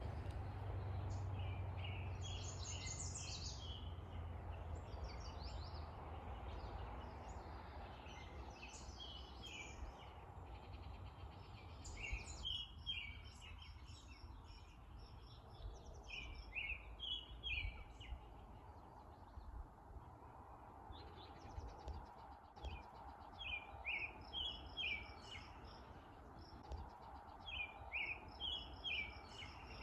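Songbirds singing, one short high phrase after another every second or two, busier in the second half. A faint steady low rumble runs underneath.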